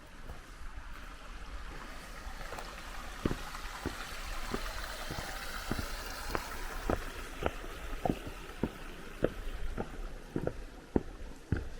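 A hiker's footsteps on a mountain trail, an even step a little under every second from about three seconds in, over the steady rush of a mountain stream.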